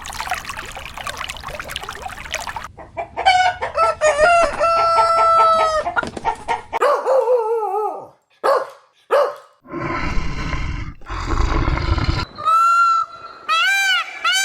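Rooster crowing once in a long held call, with chickens clucking around it. Near the end, repeated bleating begins.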